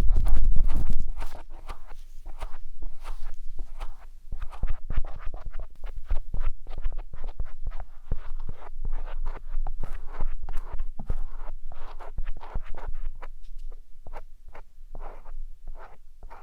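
Dense, irregular crackly scratching and scraping of a matchstick working inside the silicone ear of a 3Dio binaural microphone, with a loud low rumble from the microphone being handled in the first second.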